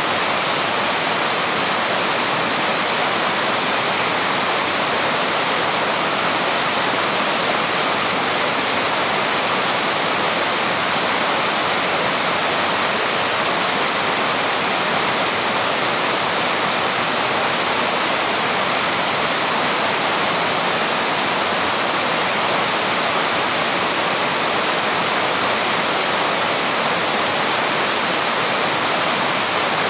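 Small waterfall with water pouring and splashing over rock in a steady, unbroken rush.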